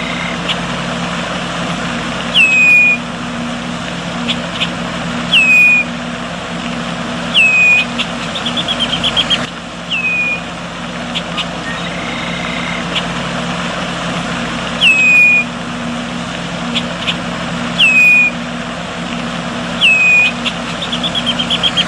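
A small bird repeating a short whistled call that drops sharply in pitch and then levels off, about every two to three seconds, with a quick run of rising notes twice. Under it runs a steady low hum with background noise.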